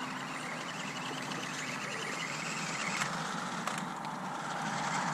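Toy-grade 1/18 scale RC truck's small electric motor whining faintly as it drives, over a steady outdoor background hiss, with two faint clicks about three seconds in.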